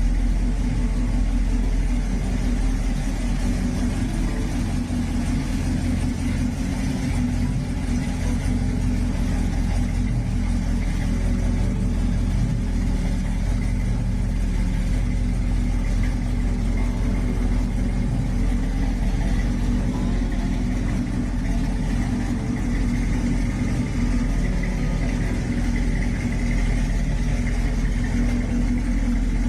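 The 350 V8 of a custom 1936 Chevrolet pickup running steadily, a low, even engine drone with no revving.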